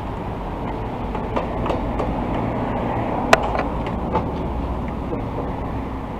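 Honda CT125 single-cylinder engine, fitted with a 142 cc big bore kit, idling steadily, with a few sharp metallic clicks, the loudest about three seconds in. The owner thinks the engine noise sounds like a rod knock.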